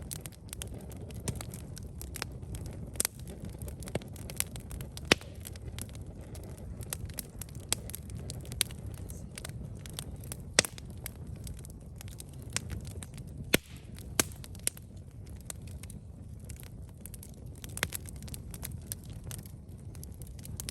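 Campfire burning, the wood crackling and popping at irregular moments over a low steady rumble, with a few sharper pops standing out.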